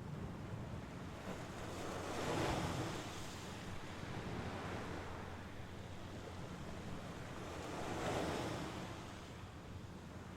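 Small sea waves breaking on the shore and washing back, two of them swelling and fading about 2 s and 8 s in over a steady surf hiss, with some wind on the microphone.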